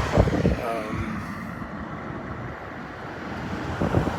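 Road traffic passing on a busy street, with wind rumbling on the microphone; it eases after about a second and builds again near the end.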